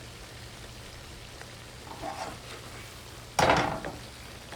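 Food frying in a pan, with a sudden loud burst of noise about three and a half seconds in.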